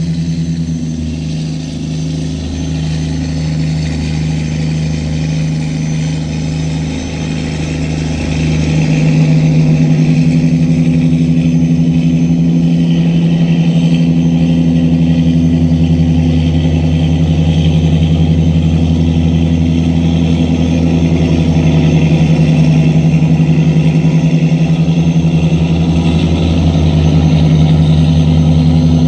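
Tugboat engine running steadily with a low, even drone, growing louder about nine seconds in.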